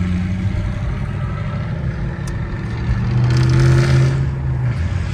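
Cammed Ford Mustang GT V8 engine running, then accelerating harder and louder about three seconds in during a quick pull in second gear.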